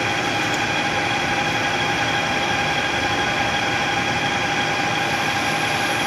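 Metal lathe running steadily, turning a billet aluminum shift knob on a mandrel, a continuous machine hum with a steady whine over it.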